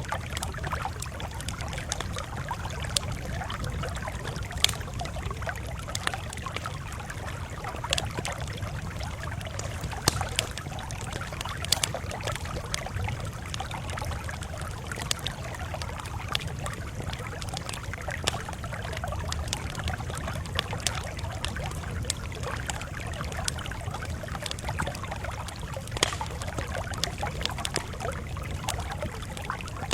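Campfire crackling: irregular sharp pops and snaps, a few of them loud, over a steady low rumble.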